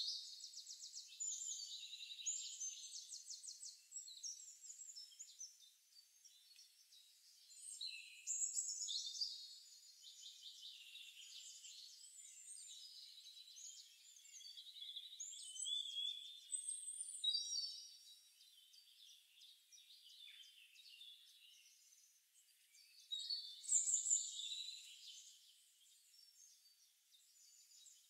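Forest birdsong from a background nature-sound track: several small birds chirping and trilling, with louder spells every several seconds.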